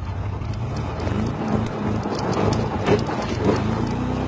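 Big-block Chevy 454 V8 in a Toyota pickup running, its revs rising and easing a little, with two short knocks a little past the middle.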